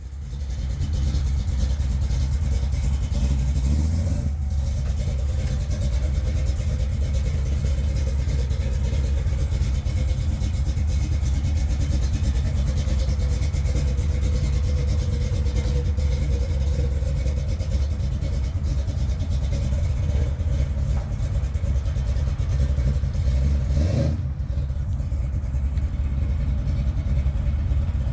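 451 cubic-inch big-block Mopar V8 in a 1978 Dodge D200 truck running steadily, with one short rise in engine speed near the end.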